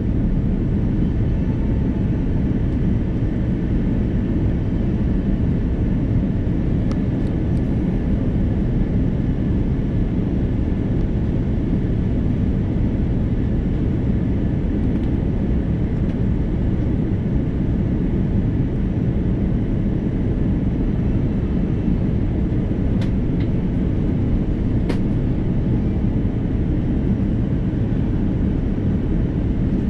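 Steady low drone of an Airbus A330-300 heard inside the passenger cabin: its Rolls-Royce Trent 700 engines and the rush of air, even and unchanging, with a few faint ticks.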